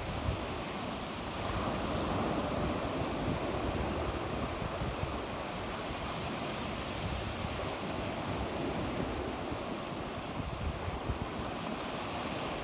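Sea waves washing onto the shore, a steady wash that swells slightly a couple of seconds in, with some wind rumble on the microphone.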